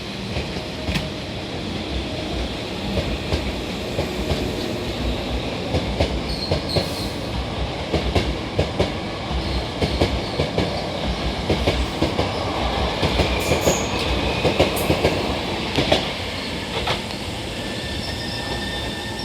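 Hankyu 7000-series electric train pulling out of a station and running past, its wheels clicking rhythmically over rail joints, with a squeal from the wheels. The clicks come thickest and loudest in the middle, then ease off near the end.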